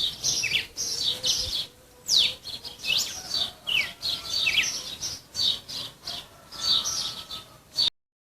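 Songbird singing a rapid, busy string of high chirps mixed with short downward-sliding whistles. The song cuts off abruptly near the end.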